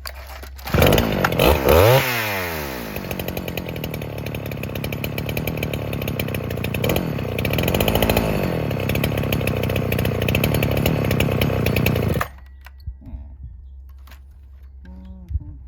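NeoTec NH895 chainsaw, a two-stroke Husqvarna 395XP clone, revving hard about a second in, then settling to a fast, wavering high idle before cutting off suddenly near the end. The owner finds the carburetor will not adjust the high idle down.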